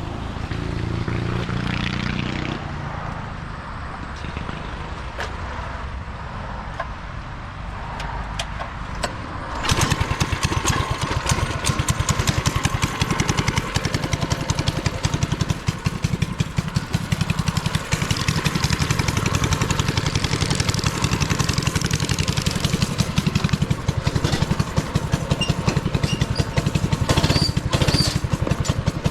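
Small single-cylinder go-kart or mini bike engine. It is heard running in the first couple of seconds, then fainter, and about ten seconds in it comes in suddenly loud and close, running on with rapid, even firing pulses.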